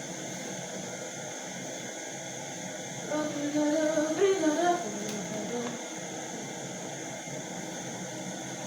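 Steady background hiss, with a woman's voice heard briefly, humming or singing for about two seconds from around three seconds in.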